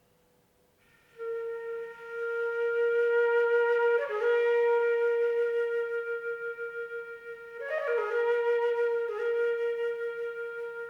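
Solo flute playing slow long-held notes, mostly on one pitch, coming in about a second in and swelling in loudness, with quick grace-note flourishes about four and eight seconds in.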